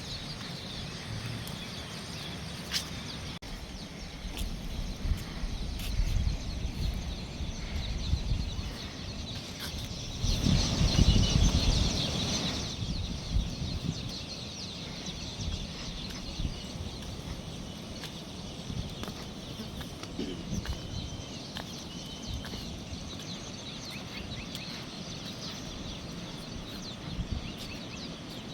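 Birds calling against wind rumbling on the microphone, with a stronger gust about ten to twelve seconds in and a few short chirps later.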